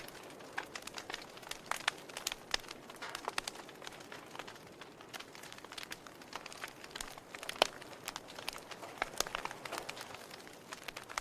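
Fire burning in a fireplace, crackling with many irregular small pops and snaps over a soft hiss. One sharper pop comes about two-thirds of the way through.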